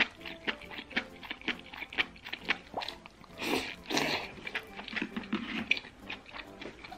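Close-miked wet chewing and lip-smacking of a person eating fatty beef slices in soup, a quick run of short mouth clicks, with a longer slurp about three and a half seconds in.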